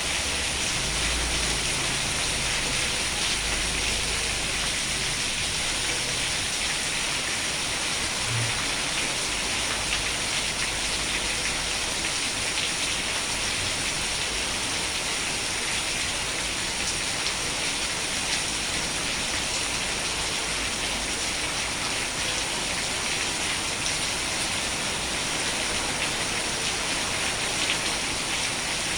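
Steady rain falling, an even hiss of many drops with no change.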